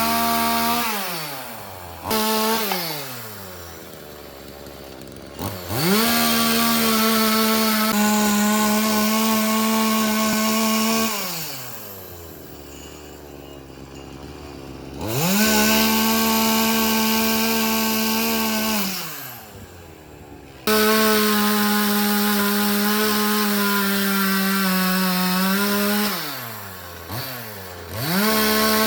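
Chainsaw running at full throttle in several long stretches, cutting wood, dropping back toward idle between them with a falling pitch and revving up again.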